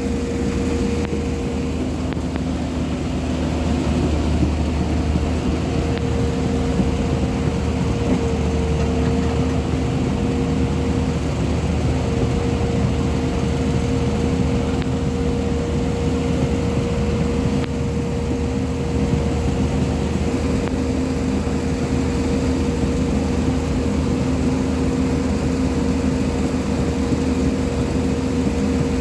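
JCB 215 excavator's diesel engine running steadily, a low drone with a steady whine held above it.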